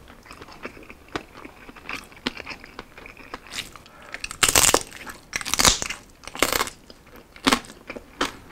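Biting and chewing roast pork belly (liempo): small mouth and finger clicks, then a run of loud crunches from about four seconds in as the crispy skin is bitten through and chewed.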